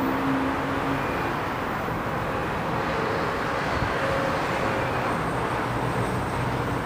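A train passing by, giving a steady rushing noise; a low hum fades out in the first second or so.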